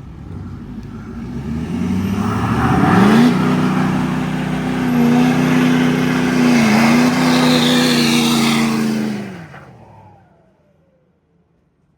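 Vehicle engine under hard acceleration: the revs climb over the first three seconds, hold high with a brief dip about two-thirds through, then fade away quickly near the end.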